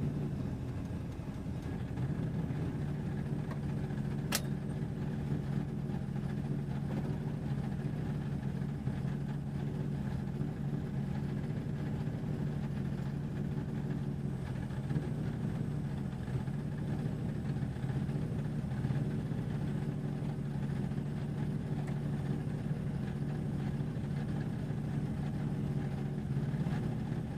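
A race vehicle's engine running steadily at low revs, close to idle, with no revving. A single sharp click comes about four seconds in.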